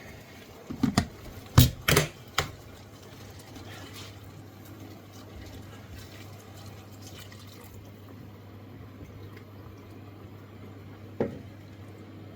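A few sharp clatters of a container or utensil against the wok, then stock poured into the wok for a few seconds, with a steady low hum under it and a single knock near the end.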